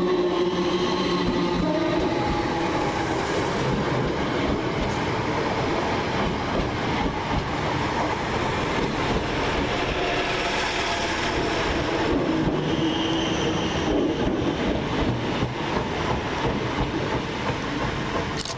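A pair of Class 321 electric multiple units running through the station: a loud, steady rumble of wheels on rail, with a run of clicks over the rail joints in the second half.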